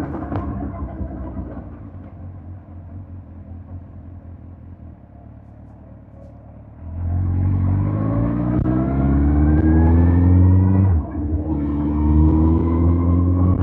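2005 Suzuki GSX-R1000 K5's inline-four engine while riding: its note falls and fades for about seven seconds as the revs drop off the throttle, then the throttle opens and it gets suddenly louder with revs climbing. A brief break about eleven seconds in, like an upshift, and the revs climb again.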